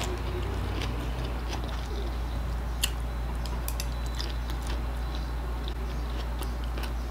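A person chewing a mouthful of instant noodles with the mouth close to the microphone, making soft scattered wet clicks, one a little sharper about three seconds in. A steady low hum runs underneath.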